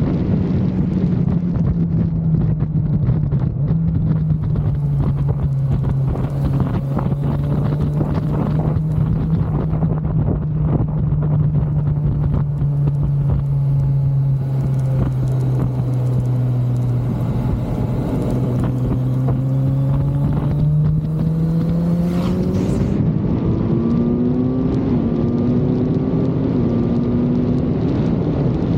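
Kawasaki Z900's inline-four engine under way, its pitch sinking slowly as the bike rolls off the throttle, then climbing again from about 22 seconds in as it accelerates. Wind rushes over the microphone throughout.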